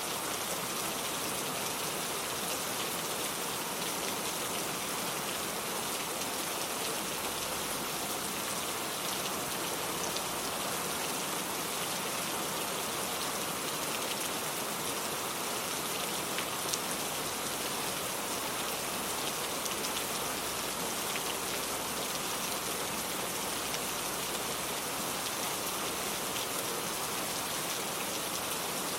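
Steady heavy rain falling, a dense even hiss with scattered individual drops ticking.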